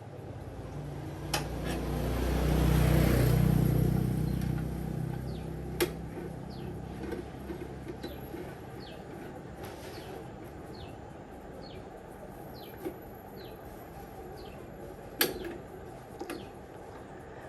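An engine passes by, swelling up and fading away over a few seconds. Then a bird chirps repeatedly in short falling notes, with a few sharp knocks in between.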